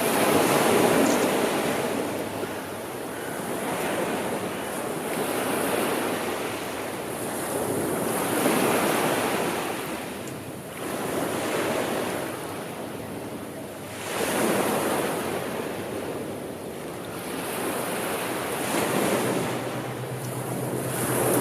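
Sea waves breaking and washing ashore, the surf swelling and ebbing every few seconds.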